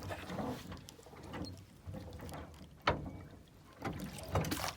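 Knocks and water noise from a small boat as a fishing net is worked in by hand, with one sharp knock about three seconds in.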